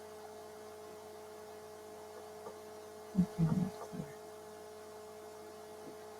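Steady electrical hum with a few faint constant tones, and a brief mumbled bit of voice about three seconds in.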